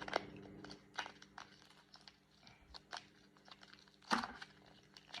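Plastic dessert packaging being pried and handled to get it open: scattered small clicks and crinkles, with one louder crackle about four seconds in.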